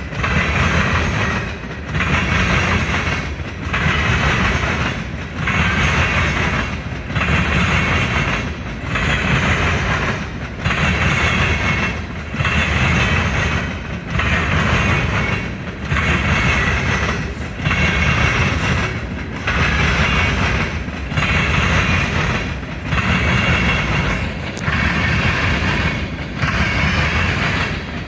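A train rolling past at speed: steady wheel-on-rail noise that swells and dips evenly about every second and three-quarters, car after car.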